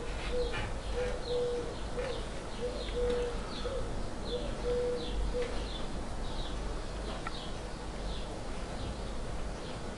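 Background bird calls: a high, short falling chirp repeating about twice a second, with a low steady note sounding in short pulses through the first half.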